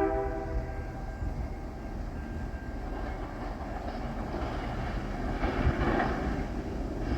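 A diesel freight train locomotive between horn blasts: the end of a horn chord fades out just after the start. Then the locomotive and train rumble, growing louder a little past the middle.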